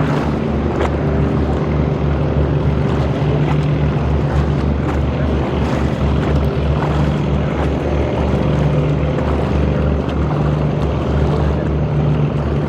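Boat engine running steadily, a loud low hum with a pulsing throb, over a rushing haze of water and wind.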